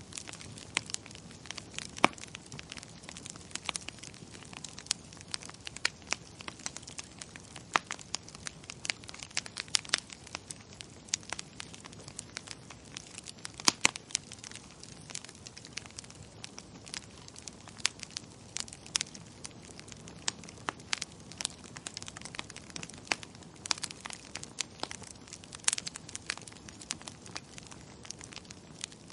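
Wood fire in a fireplace crackling: a steady low hiss with frequent irregular sharp pops and snaps.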